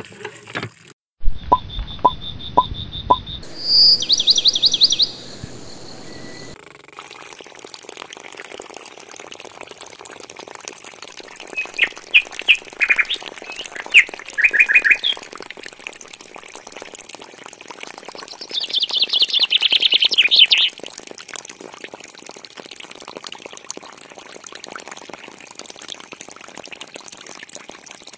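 Small birds chirping: a few short, rapid trills and chirps, the loudest about a third of a second's burst near the start and a two-second trill about two-thirds through, over a faint steady background hiss.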